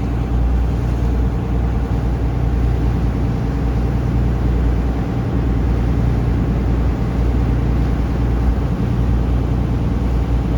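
Taxi boat's engine running steadily: an unbroken low drone with a hiss over it.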